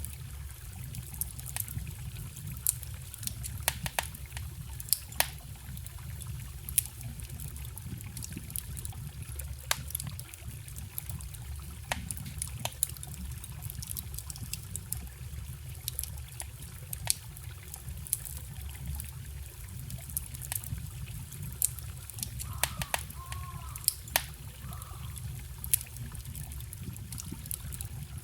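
A wood campfire crackling with frequent sharp pops over the steady trickle of a small forest stream. A few brief chirps sound near the end.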